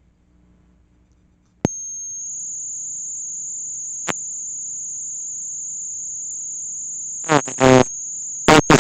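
A steady, very high-pitched electronic tone that switches on with a click about one and a half seconds in, after near silence, and holds with another click around four seconds in. Short voice-like sounds come in over it near the end.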